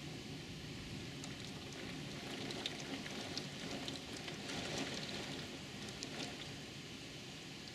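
Light rain: a steady hiss with scattered drop ticks, busiest around the middle.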